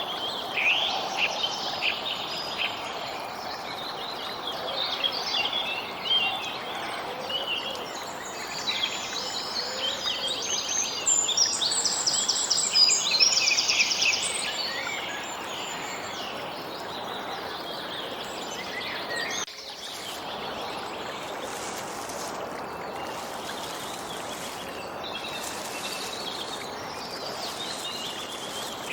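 Wild birds chirping and singing over steady outdoor background noise. The calls are busiest in the first half, with a rapid trill about halfway through, then thin out.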